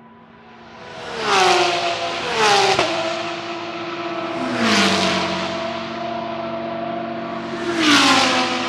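GT3 race cars passing one after another at speed, four in quick succession, each engine note dropping in pitch as the car goes by.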